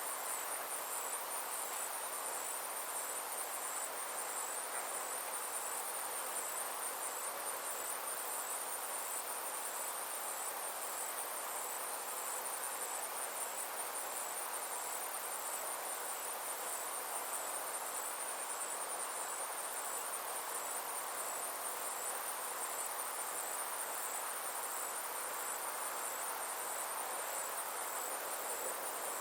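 Insects trilling steadily in a high, fast, evenly pulsed chorus that does not change, over a soft steady hiss of outdoor air.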